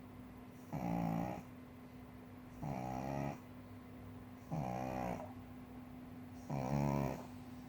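Pug snoring in sleep: four snores at an even pace about two seconds apart, each a buzzing pitched sound under a second long.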